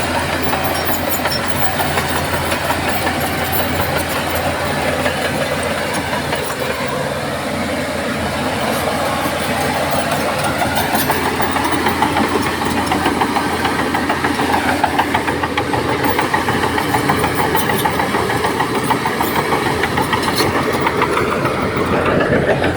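Heavy diesel engine of earthmoving machinery running steadily, growing slightly louder about halfway through.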